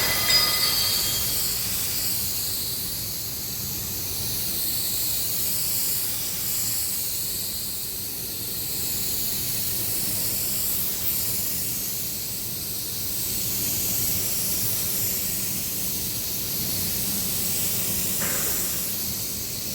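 Steady high-pitched hiss of a spray, its tone sweeping slowly up and down as the spray moves, with a brief sharper burst near the end.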